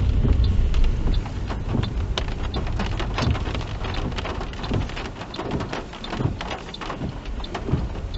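Rain falling on the car, heard inside the cabin as many small, irregular taps over the car's low road rumble.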